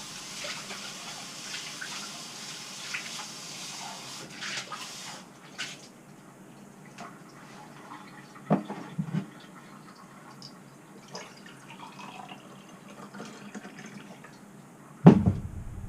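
Water running into a container for about five seconds, then scattered light knocks and clinks, with one louder knock near the end.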